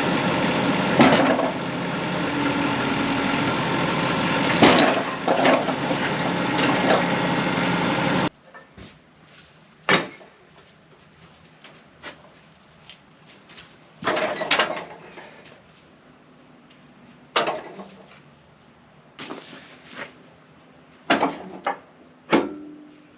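An engine idling steadily, with a few sharp clanks over it. About eight seconds in it stops abruptly, leaving scattered knocks and clatter of wood and metal.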